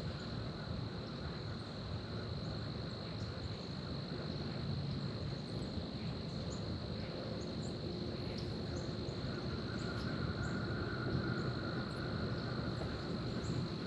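Steady insect chorus holding one high, unbroken note, over a low wash of wind and water noise. A fainter, lower buzz joins about nine seconds in and fades out a few seconds later.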